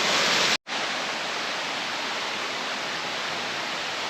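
Waterfall pouring steadily, a constant hiss of falling water. It cuts out for an instant about half a second in, then carries on slightly quieter.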